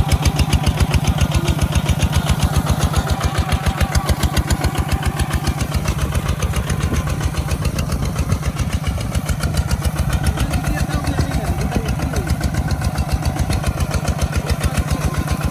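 Kubota ZT 155 single-cylinder diesel engine running steadily, with a rapid, even chugging beat that holds constant speed throughout.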